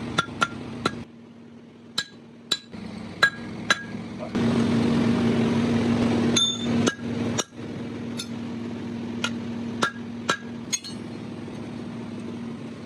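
Hammer blows on metal, struck irregularly, each with a short metallic ring, over a steady low hum. A louder rushing noise runs for about two seconds in the middle.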